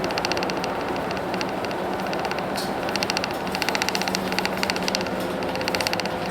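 Hino Blue Ribbon City bus's P11C inline-six diesel running steadily, heard from the front of the bus. A rapid fine ticking runs over the engine, with a short break about two and a half seconds in.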